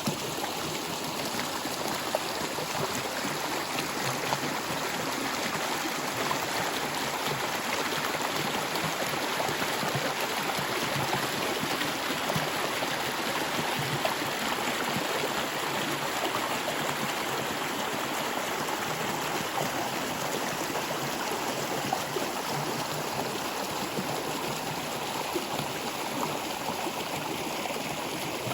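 Flowing water running steadily, an even continuous rush with no pauses.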